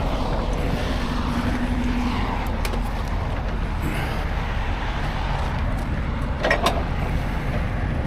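Heavy truck engine running steadily under a wash of road noise, with a brief clank about six and a half seconds in.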